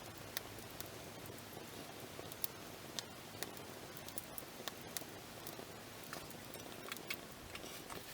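Wood campfire crackling: irregular sharp pops and snaps over a soft, steady rush of burning.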